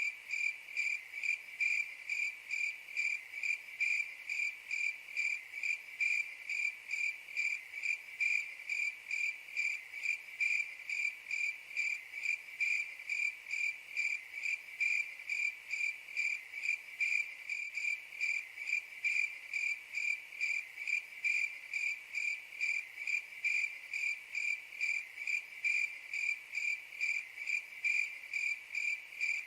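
Cricket chirping steadily, one high-pitched chirp repeated evenly a little over twice a second.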